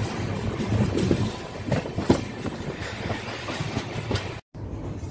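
Passenger train coach rolling along: a steady rumble with irregular clacks of the wheels over rail joints and points. The sound cuts out for an instant near the end.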